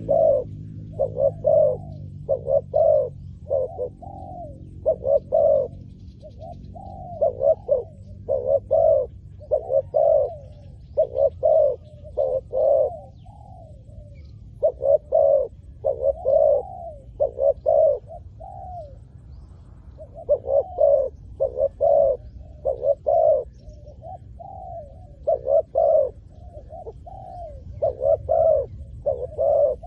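Spotted doves cooing over and over, short low notes in repeated phrases with brief pauses between them.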